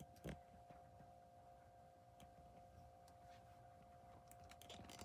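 Near silence: a faint steady hum, with one soft click about a third of a second in and a few faint ticks.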